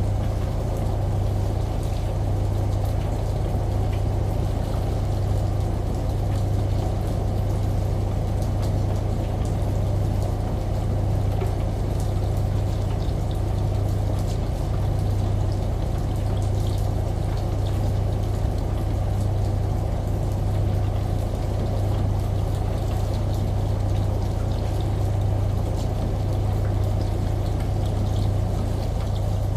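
Washing machine running with a steady low hum, layered with running shower water and rain in a continuous, even wash of sound.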